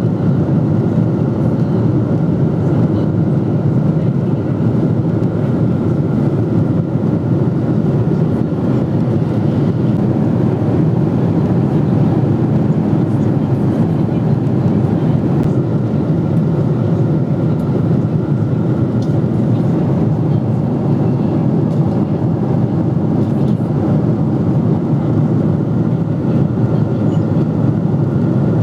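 Steady cabin noise inside a Boeing 777-300ER in flight: an even, unchanging low rush of engine and airflow noise.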